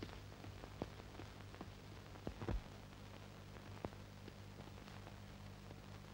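Quiet soundtrack with a low steady hum and a few scattered soft clicks, and a louder knock about two and a half seconds in.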